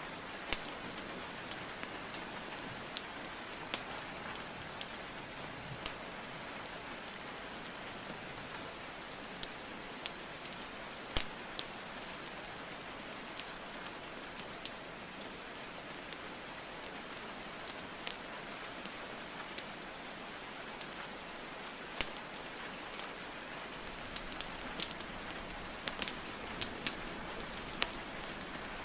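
Steady rain hiss mixed with a wood fire crackling: scattered sharp pops over the rain, coming thicker near the end.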